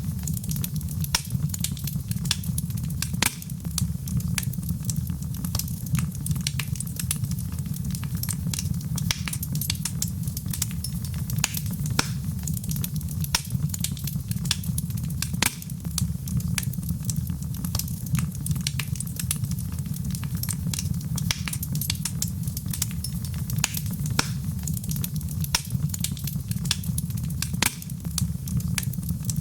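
Wood fire crackling: a steady low rumble of burning with frequent sharp pops and snaps at irregular intervals.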